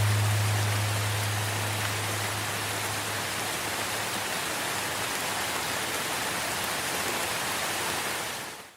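Steady rain falling, an even hiss. A low held note from the soundtrack dies away over the first three seconds or so, and the rain fades out right at the end.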